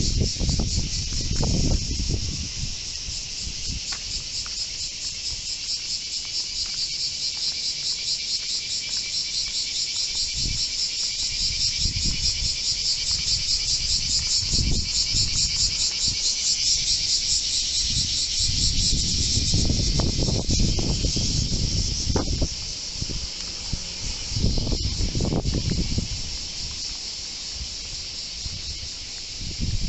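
A steady, high, rapidly pulsing chorus of insects, with gusts of storm wind buffeting the microphone in low rumbling surges every few seconds.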